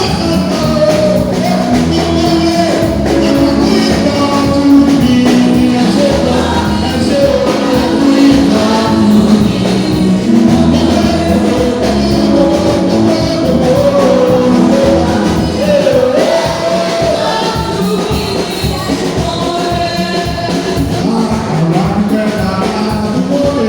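Church praise music: several voices singing over a band accompaniment, loud and continuous.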